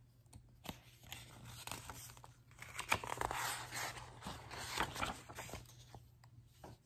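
Paper pages of a picture book being flipped by hand, a rustling, crinkling run of page noise that is loudest in the middle and dies away near the end.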